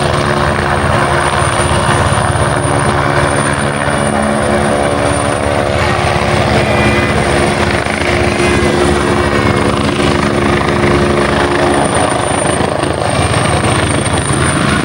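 Helicopter hovering: steady rapid rotor chop over a deep continuous engine hum, with a thin high whine on top.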